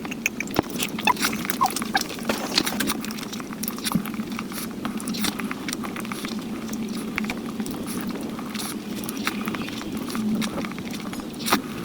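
Close-miked eating sounds: chewing, with many soft wet clicks and crackles from the mouth and the food.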